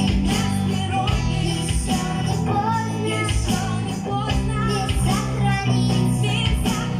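A rock song played live: a singing voice carries the melody over guitar, a sustained bass line and drums.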